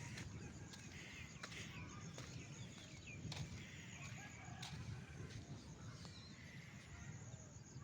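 Faint outdoor ambience with scattered short bird chirps and calls over a low rumble, and a few brief clicks.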